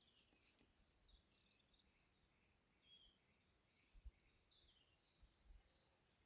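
Near silence with faint birdsong: scattered chirps and a short high trilled phrase in the middle. A few faint clicks come near the start, and there is low rumbling about four seconds in.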